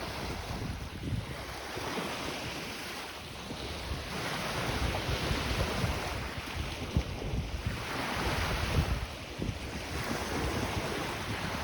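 Lake waves washing onto the beach, the surf swelling and easing a few times, with wind buffeting the microphone as a low rumble.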